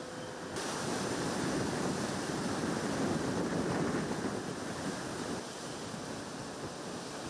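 Hurricane wind and rain making a steady rushing noise. It grows louder about half a second in and eases slightly near the end.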